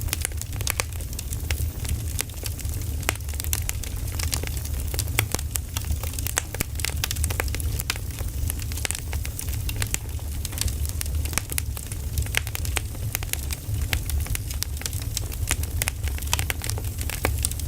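Firewood burning, crackling with frequent sharp pops over a low steady rumble.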